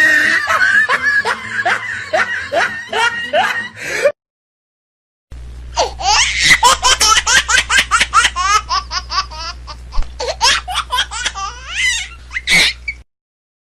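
Two laughter sound effects separated by a moment of dead silence: a rhythmic laugh that stops about four seconds in, then a longer, rapid, high-pitched cackling laugh over a steady low hum that cuts off near the end.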